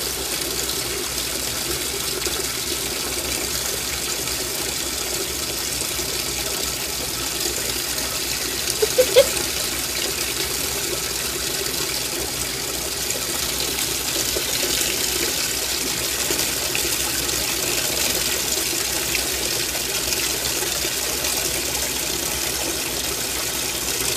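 Washing machine filling: a steady stream of water running into the tub. About nine seconds in, a brief pitched squeak stands out over the water.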